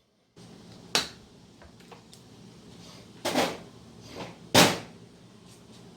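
Hand tools working on a car battery's ground cable and terminal: a sharp click about a second in, then two louder metallic clunks about three and a half and four and a half seconds in.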